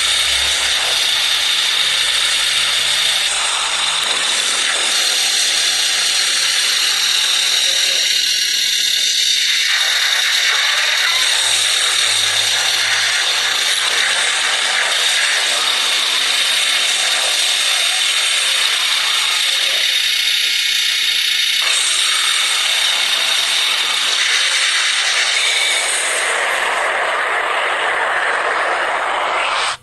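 Steady, harsh mechanical noise like a power tool running, its tone shifting every few seconds.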